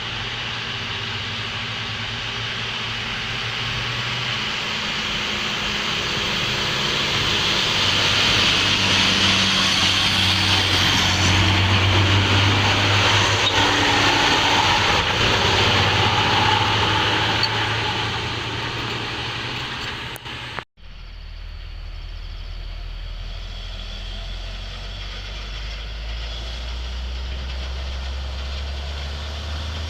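Overloaded dump truck creeping down a steep descent: a harsh, hissing brake noise over its low-running engine swells to a peak and fades. After an abrupt cut about two-thirds of the way through, a truck engine runs low and steady.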